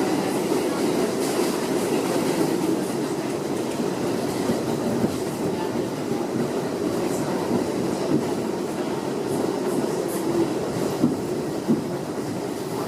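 An R62A subway car running at speed, heard from inside the car: a steady rumble of steel wheels on the rails with clickety-clack over the rail joints. Two sharp knocks come near the end.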